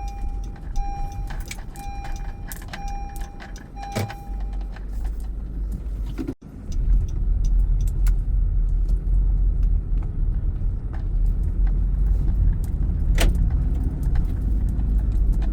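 A car's in-cabin warning chime repeats a run of short, even beeps at one pitch for about the first five seconds. About six seconds in the audio briefly drops out, and then a steady low engine and road rumble inside the car takes over.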